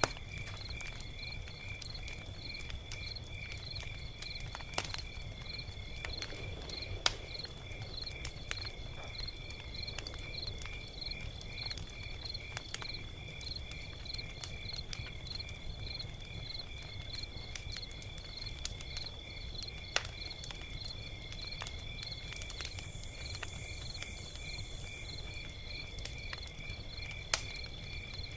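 Log fire crackling: scattered sharp pops and snaps over a steady low rumble, with crickets chirping in an even, continuous rhythm behind it.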